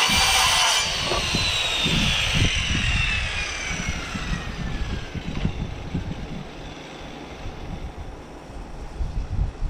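Power saw finishing a cut through old barn wood, then the blade winding down after the trigger is released, a whine that falls steadily in pitch over about five seconds. Low rumbling wind noise on the microphone runs underneath.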